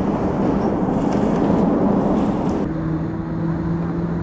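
Steady rumbling vehicle noise; about two and a half seconds in it cuts abruptly to a quieter, steady engine hum.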